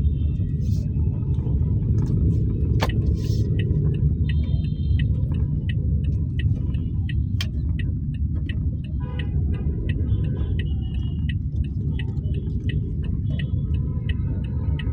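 Steady low road and engine rumble of a Toyota Axio driving through city traffic, heard from inside the car. Faint clicks and brief, faint higher tones come from the traffic around it.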